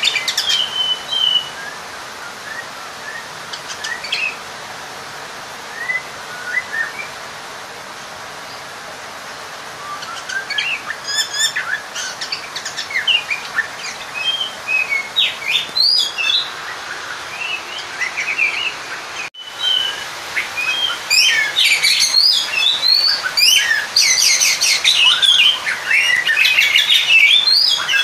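Oriental magpie-robin (kacer) singing a varied run of whistles and chattering notes, sparse at first and becoming dense and loud in the second half. It is the challenge song of a bird looking for a rival, the kind used to rouse other magpie-robins into answering.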